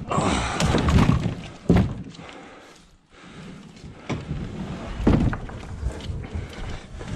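Dull thunks and scraping, as of a plastic fishing kayak being handled and set down, with a sharp knock about two seconds in and another about five seconds in.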